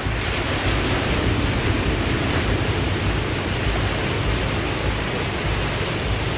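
Waterfall: falling water rushing in a steady, even wash of sound.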